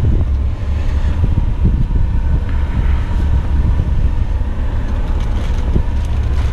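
Eight-wheeler dump truck's diesel engine running steadily, a deep continuous drone.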